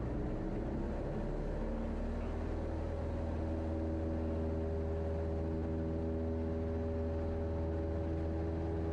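Cessna 172's piston engine running at low power after touchdown. Its note shifts during the first couple of seconds, then holds steady.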